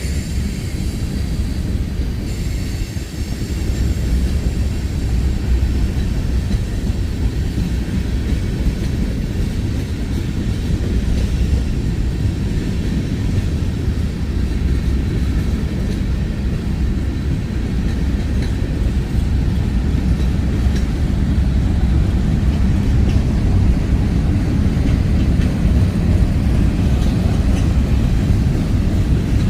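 Freight train rolling past: a steady low rumble of railcars and wheels on the rails that holds on without a break.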